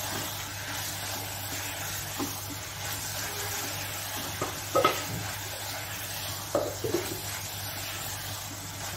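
Minced mutton and potato pieces sizzling as they fry in oil in a pot, stirred with a silicone spatula. A few short knocks and scrapes of the spatula against the pot, the loudest about five seconds in.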